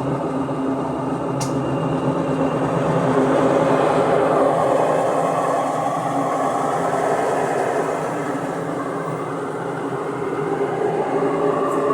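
Electrolux LSE15 Essential Care top-load washing machine in its spin cycle, running with a loud, steady mechanical rumble and whine, with one sharp click about a second and a half in. The noise is diagnosed as coming from the transmission (gearbox).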